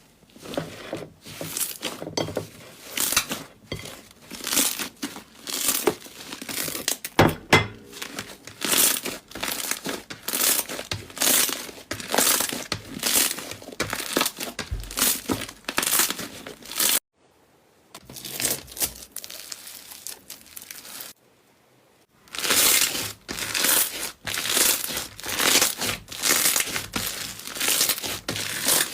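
Slime being squeezed and worked by hand, giving dense, repeated crinkling, crackling sounds that stop briefly twice past the middle.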